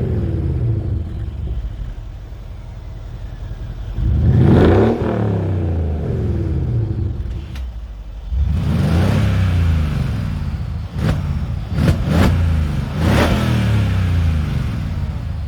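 Mercedes ML63 AMG W166's twin-turbo V8 through a custom Hoffman valved active exhaust, idling and revved in short blips about four times, each rise in pitch falling back to idle, with a few sharp pops near the later blips.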